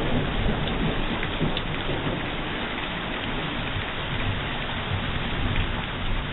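Steady heavy rain, an even hiss with a low rumble and scattered drop ticks.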